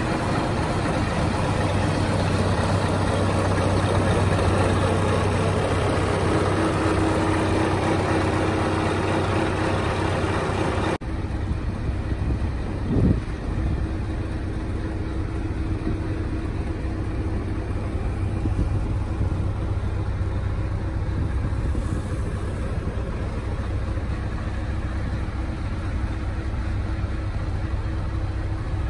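Scania 450 truck's 13-litre straight-six diesel engine idling steadily with a low hum. About eleven seconds in the sound changes abruptly to less hiss, and a short thump follows soon after.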